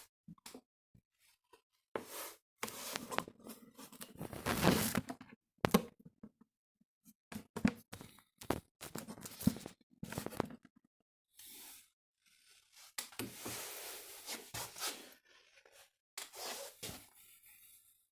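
Irregular rustling and scraping with a few sharp knocks, in short bursts with pauses: things being handled close to the microphone.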